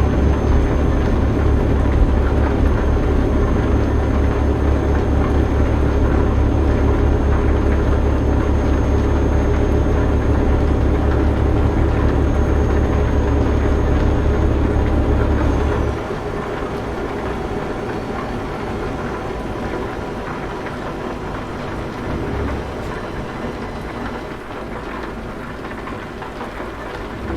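Heavy truck running, a deep engine drone under a steady wash of road noise. About two-thirds of the way through, the deep drone drops away and the sound turns quieter, leaving mostly an even hiss.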